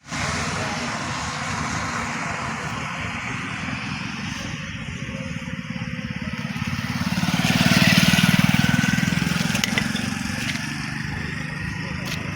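A motor vehicle's engine running steadily under a broad rushing noise. It grows louder for a few seconds around the middle, then eases off.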